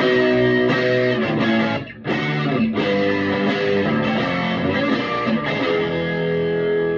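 Electric guitar played through a Vintage Sound Amp on its bridge (rear) Scala pickup: chords strummed and left to ring, with a short break about two seconds in and a long held chord near the end.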